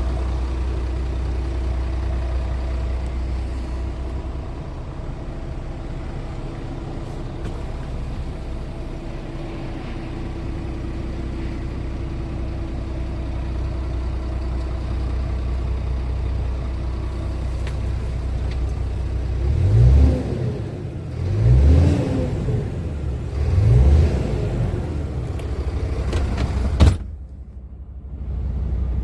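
Scania R450 truck's diesel engine idling steadily, then revved three times in short bursts about two-thirds of the way through. Near the end a sharp click, after which the engine sound drops away.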